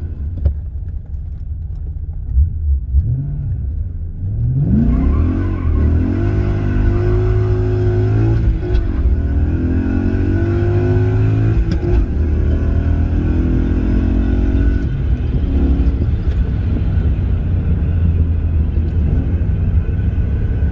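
BMW E23's swapped-in M60 4.0-litre V8 accelerating hard: the engine note climbs steeply from about four seconds in and runs high, breaking off briefly twice, then settles to a steadier run near the end.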